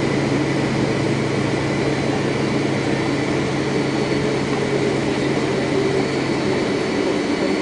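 Boeing 767-400 jet engines and airflow, heard as steady noise inside the airliner's cabin as it rolls along after landing. A low hum drops away near the end.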